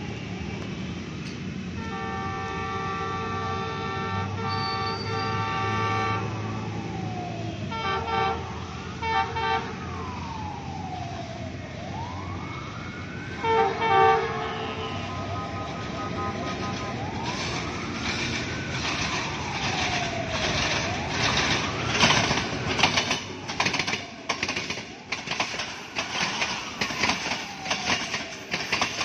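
ZCU-20 diesel locomotive's multi-tone horn sounds one long blast, then several short ones as the train approaches. A wailing siren rises and falls through the middle. Then wheels clatter over the rail joints as the locomotive and its coaches pass close by, loudest as the locomotive goes past.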